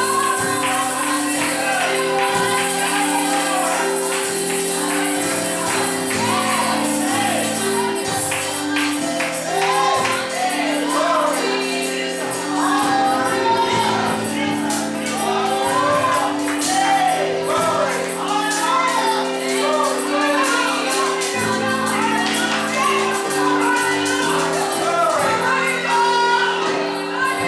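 Gospel music: a congregation singing with voices rising and falling over held chords, and a tambourine shaken and struck throughout.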